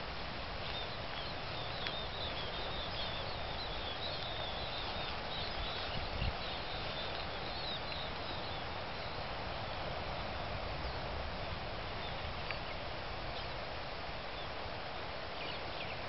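Small birds chirping: a quick, busy run of short high calls through the first half, then only a few single chirps, over steady wind noise.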